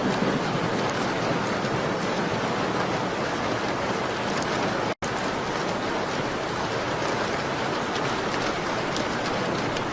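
Steady rain, a dense even hiss with scattered faint high ticks. The sound cuts out for an instant about five seconds in.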